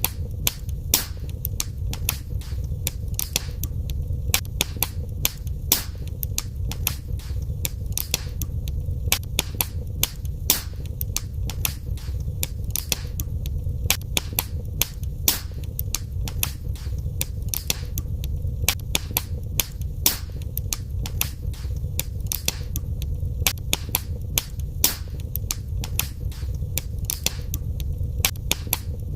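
Wood fire crackling in a fireplace: a steady low rumble of burning with frequent sharp pops and snaps at irregular intervals, several a second.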